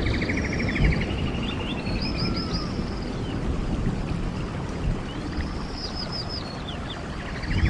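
Stream water running steadily, with songbirds singing over it: a few whistled phrases of quick down-slurred notes, and a rapid trill near the end.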